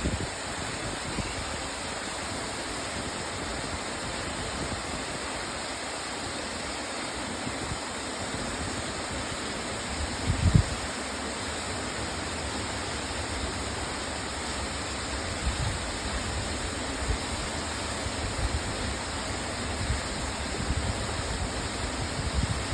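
Waterfall rushing steadily, with a brief low thump about halfway through.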